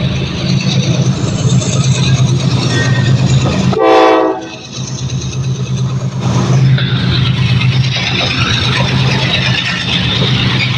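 Egyptian National Railways freight train running, a steady rumble of wheels and wagons on the rails, with a short horn blast about four seconds in.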